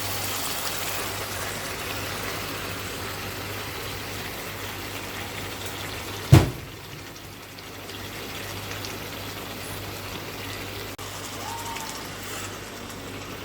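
A pot of onion, ginger and garlic masala with spices frying and sizzling steadily as meat is cooked in it. A single sharp knock about six seconds in.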